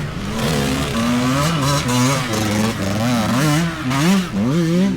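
Dirt bike engine revving up and down over and over, the throttle opened and closed in short blips.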